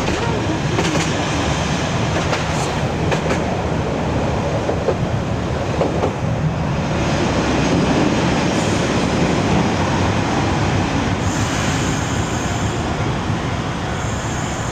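Interior running noise of an Amagi Railway diesel railcar: wheels rolling on the rails with a few sharp clicks over rail joints near the start. From about eleven seconds in, a high squeal comes in twice as the railcar slows alongside a station platform.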